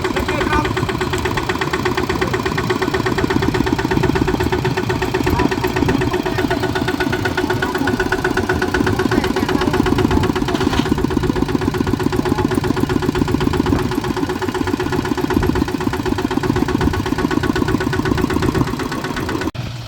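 Farm tractor's diesel engine running steadily with a fast, even firing rhythm. The sound cuts off abruptly near the end.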